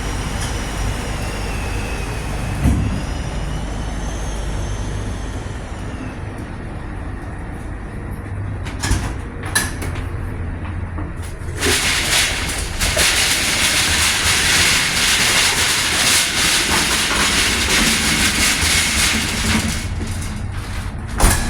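Steady hum of kitchen machinery, with a faint wavering whine over it for the first few seconds. From about twelve seconds in a louder, even hiss like steam or rushing air joins in and stays, with a few clicks and knocks.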